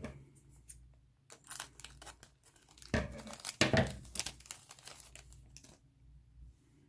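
Plastic bags of miniatures crinkling and being torn open, in a run of rustles with two louder ones about three and three and a half seconds in.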